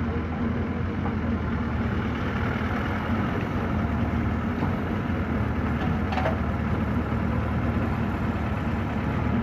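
A tractor's diesel engine running steadily at low revs, with a faint click about six seconds in.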